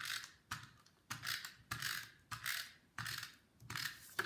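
Snail tape runner laying double-sided adhesive onto a cardstock circle in about eight quick, evenly spaced strokes, each a short ratcheting run that starts sharply and fades.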